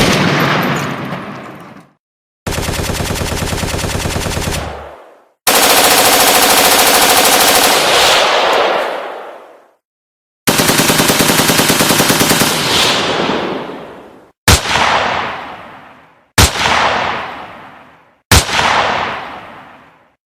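Gunshot sound effects played one after another with dead silence between them: several sustained bursts of rapid automatic gunfire, then three single shots about two seconds apart, each followed by a long fading echo.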